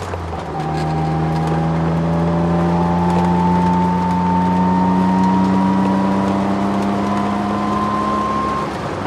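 Inside the cabin, a Ford Sierra XR4x4's twin-turbo V6 pulls hard in a long gear after a quick gear change at the start, its pitch climbing slowly, then eases off near the end. A whine from the poly-bushed drivetrain and solid diff mount rides over the engine.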